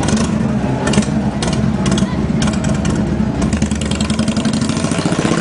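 Motorcycle engines running with a steady low pulse, with short repeated blips of throttle over it.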